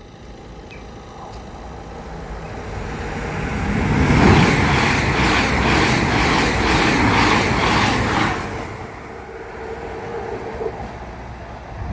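Two coupled Class 220 Voyager diesel-electric multiple units passing at speed. The sound builds for about four seconds, is loudest for about four seconds with a quick, regular clatter of wheels over the rails, about three strokes a second, then fades away.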